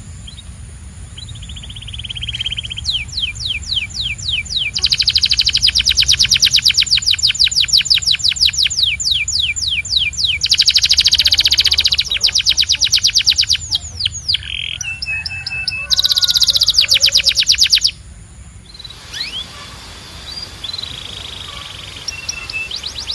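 Domestic canary singing in rapid trills of repeated downward-sweeping notes, switching from one roll to the next, loudest through the middle and turning softer and more scattered near the end. A steady low hum runs underneath.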